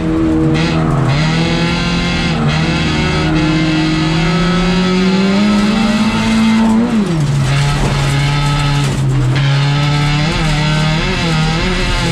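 Folk-racing car's engine heard from inside the stripped cabin, revs climbing slowly for several seconds and then dropping sharply about seven seconds in before holding steady lower down. A few short knocks come through the bodywork.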